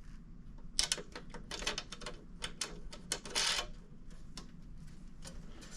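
Irregular metal clicks and rattles of a wing nut being fitted and spun onto a half-inch bolt by hand, mostly in the first half, then only a few faint ticks.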